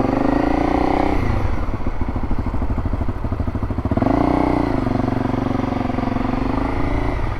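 Motorcycle engine running as the bike is ridden, with the revs swelling and easing off twice, near the start and again about four seconds in.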